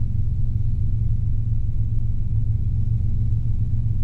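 Robinson R22 helicopter in cruise flight: a steady low drone of engine and rotor noise in the cockpit, even and unchanging.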